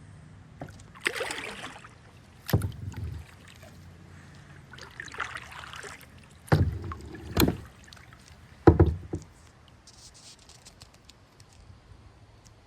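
Kayak paddle strokes: water splashing off the blade twice, and four hollow knocks as the paddle bumps against the kayak's hull, the last about nine seconds in.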